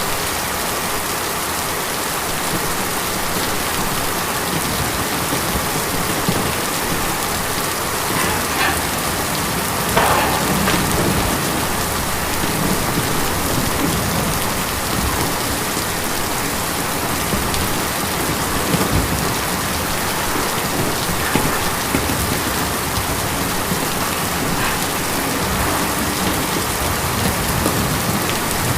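Steady rain drumming on a tin roof, with a brief louder spell about ten seconds in.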